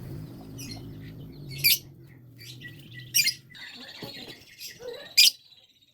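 Lovebird giving short, sharp, high-pitched chirps: three loud ones about a second and a half apart, with softer chirps between. A low hum sounds underneath and dies away about halfway through.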